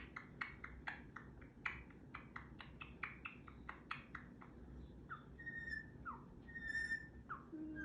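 Pet parrot clicking its beak and tongue in a quick run of sharp clicks, then giving a few short downward chirps and two brief steady whistles.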